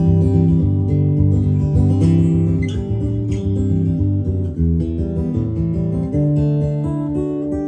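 Donner Hush 1 silent guitar heard through its piezo pickup, amplified by a PA speaker with delay and reverb: chords played and left ringing, changing every second or so, with the typical piezo acoustic-electric tone.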